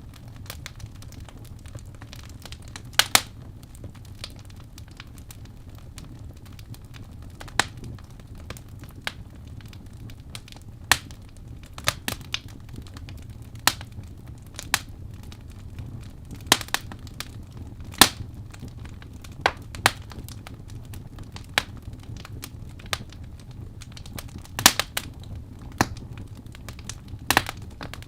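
Wood fire burning in a fireplace: a steady low rumble of flames with irregular sharp crackles and pops every second or few, some in quick pairs.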